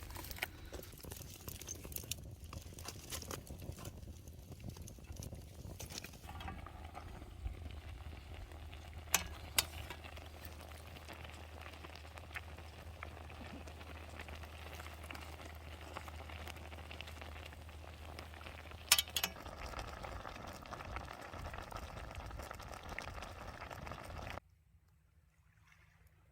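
Food cooking over a camp stove, a steady sizzling with a few sharp clicks, likely utensils against the pan. The sound cuts off suddenly near the end.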